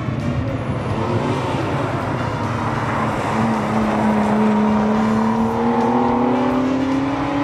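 C130 Nissan Laurel hardtop's engine pulling out of a corner on track, its note climbing steadily in pitch over the last few seconds as it accelerates.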